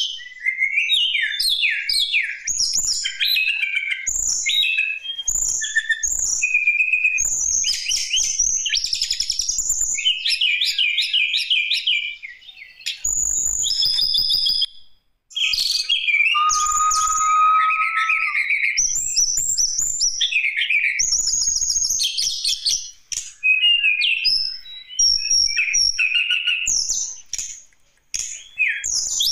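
Tledekan gunung singing a fast, varied song of high chirps, trills and rapid note runs, delivered in phrases broken by short pauses. A lower, steady whistled note sounds for about two seconds midway through.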